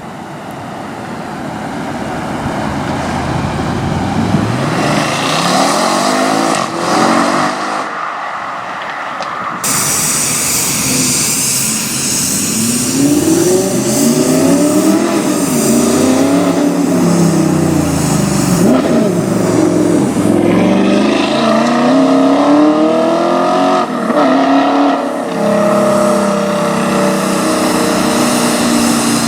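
Audi RS6 performance estates accelerating hard, the engine note rising in pitch through the revs. About ten seconds in the sound changes abruptly, and from then on the engine note repeatedly climbs and drops back as the cars rev and shift through the gears.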